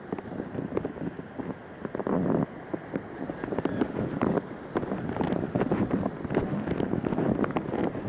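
Wind buffeting the microphone, with many irregular knocks and rattles and no steady engine note.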